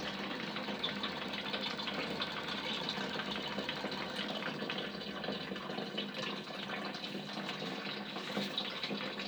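Homemade Stirling engine built on a 37 cc brushcutter cylinder with a 2 kg flywheel, running steadily: a continuous rushing hiss with fine, rapid ticking.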